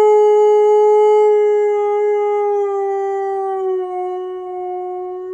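Siberian Husky howling: one long, unbroken howl that drops slightly in pitch about four seconds in.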